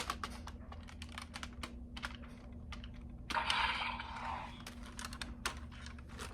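Irregular light clicks and taps of a toy being handled and worked, with a short scraping rustle about three seconds in.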